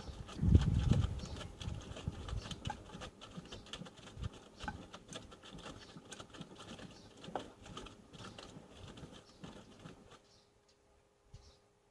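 Panasonic NA-147VB2 front-loading washing machine in its wash phase: wet laundry tumbling and splashing in the drum, with a heavier thud about half a second in. The tumbling dies away about ten seconds in, leaving a faint steady hum.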